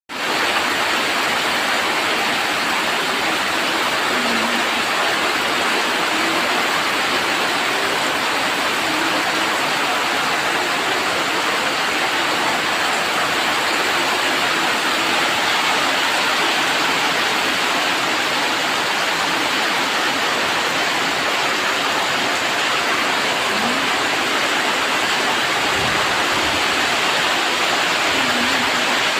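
Heavy rain on a corrugated tin roof, a steady, dense hiss of drops that doesn't let up.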